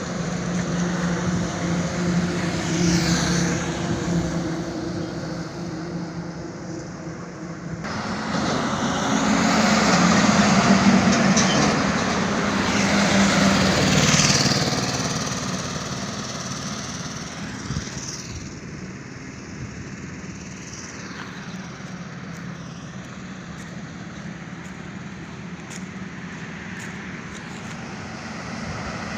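Road traffic on a highway: a steady engine hum, then vehicles passing by with rising and falling rushes of tyre and engine noise, the loudest a few seconds after the middle, easing to a steadier rumble.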